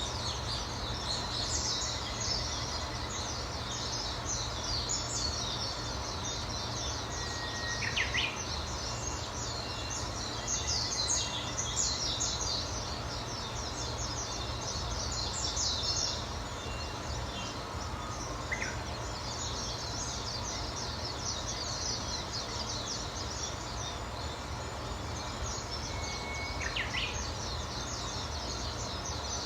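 Wild birds chirping and singing, a dense run of short high chirps that is busiest in the first half. A few separate lower calls come about a quarter of the way in, past the middle and near the end, over a steady background hiss.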